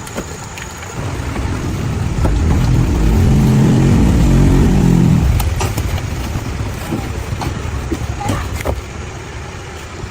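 A motor vehicle's engine rumble that swells over a couple of seconds, peaks and fades away about six seconds in, like a vehicle passing by. A few light knocks follow.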